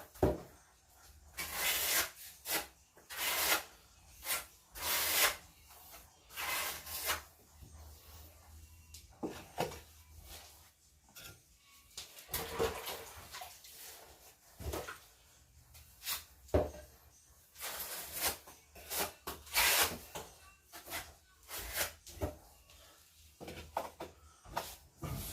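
Wet refractory mortar being scraped and spread onto refractory bricks with a hand tool, in repeated uneven strokes, with a few sharper knocks between them.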